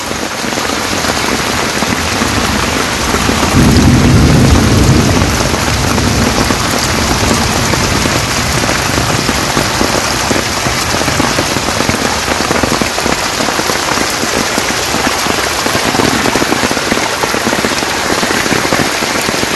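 Steady heavy rain falling on the ground, with rainwater runoff streaming over muddy soil. A low rumble swells about four seconds in and fades a second or so later.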